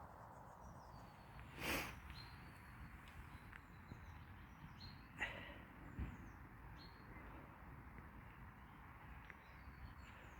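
Small birds chirping in short high calls over a faint steady low background hum. About two seconds in there is one brief louder noise, and there are two sharp clicks later on.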